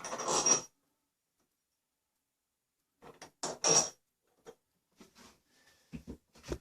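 Short clinks and scrapes of metal hardware being handled: two brief bursts, one at the start and one about three and a half seconds in, then a few lighter knocks near the end.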